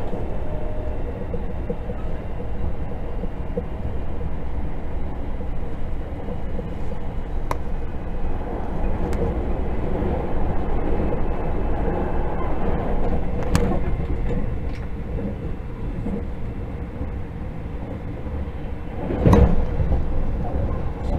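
Running noise of a JR 681/683-series limited express electric train heard inside the passenger car: a steady low rumble with a few sharp clicks, and a brief louder burst about nineteen seconds in.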